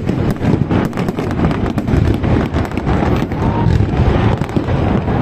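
Fireworks going off in rapid succession: a dense run of cracks and bangs.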